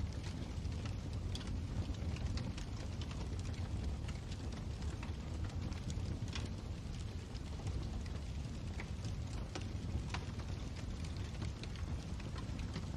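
Wood fire burning in a fireplace: a steady low rumble of the flames with scattered crackles and pops, a few sharper ones about six and ten seconds in.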